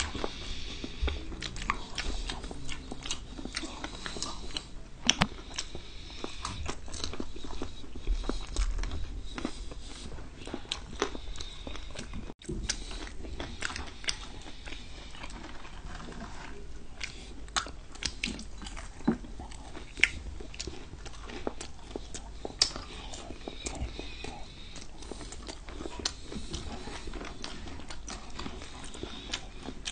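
Eating sounds of fried chicken and French fries: chewing, biting and lip smacks, with many small sharp clicks and a few louder ones.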